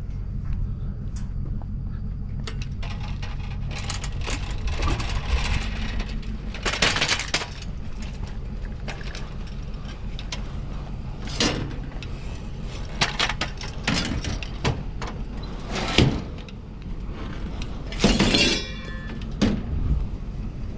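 A steady low engine hum with scattered clanks, knocks and short rattling crashes, the loudest about a third of the way in and twice near the end.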